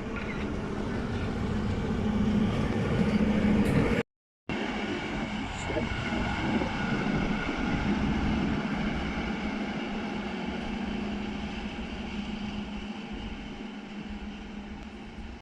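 A train running at the platform with a steady hum and higher whining tones. It grows louder, breaks off in a brief silent gap about four seconds in, then resumes and gradually fades.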